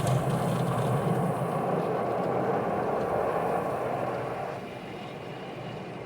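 Automatic car wash machinery running, heard from inside the car: a steady noise that drops in level about four and a half seconds in.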